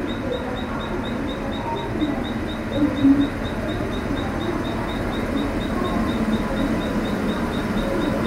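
WAP-7 electric locomotive and its coaches rolling slowly past as the train departs: a steady rumble from the wheels and running gear, with a brief louder sound about three seconds in.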